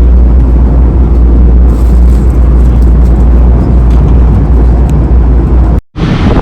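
Steady low rumble of a moving train heard from inside the carriage. It cuts off abruptly near the end.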